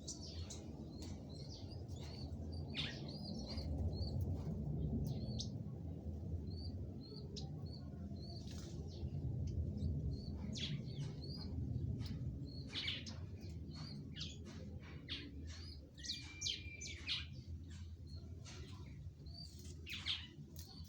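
Small birds chirping: many short, high chirps, often in quick runs, over a steady low rumble.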